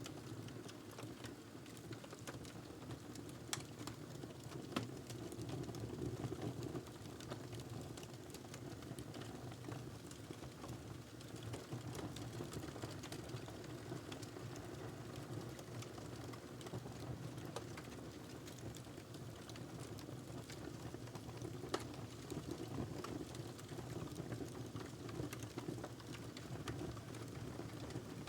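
Wood fire burning in a fireplace: a steady low rush of flame with irregular crackles and pops throughout, a few of them sharper and louder.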